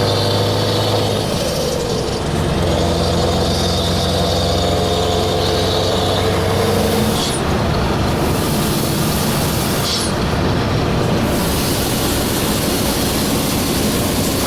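Scania 4-series truck's V8 diesel engine running with a steady note, which turns to a rougher, noisier rush about halfway through.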